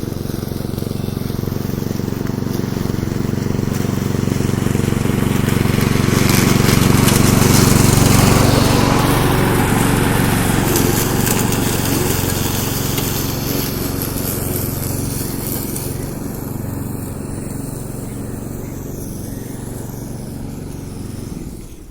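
Engine of a HaKo hk2170 walk-behind lawnmower running steadily as it mows. It grows louder toward the middle as the mower comes closer, then slowly fades as it moves away.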